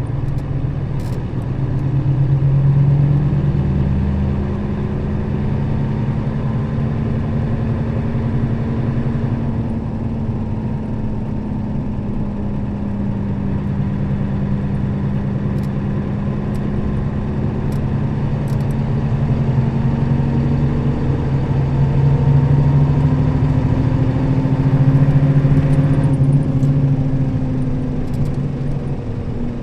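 Nissan Diesel KL-RA552RBN bus engine running under way at a fairly steady speed, heard from inside the bus with road noise. The engine note rises and falls gently.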